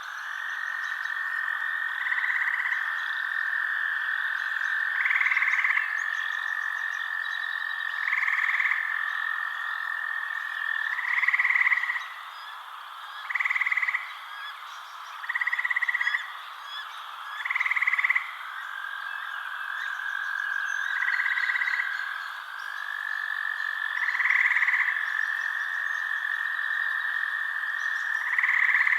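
Night chorus of frogs: a continuous high trilling drone, with a louder call of about a second repeating every two to three seconds.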